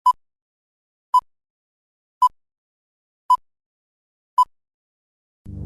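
A series of five short, identical electronic beeps at one pitch, evenly spaced about a second apart. Near the end, loud music with heavy bass starts abruptly.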